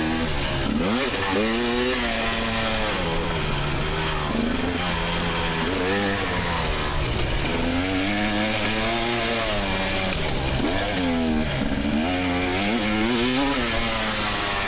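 2024 GasGas EX300's single-cylinder two-stroke engine revving hard and dropping back again and again under the rider's throttle, its pitch climbing and falling every second or two.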